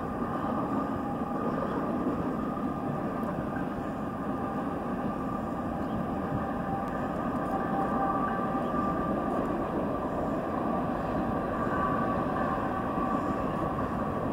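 Distant CN train running, a steady rumble heard from afar, with faint steady higher tones over it.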